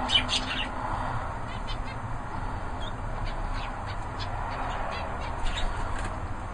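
Small aviary birds giving short, scattered chirps and calls, a few near the start and more around the middle and later, over a steady low background hum.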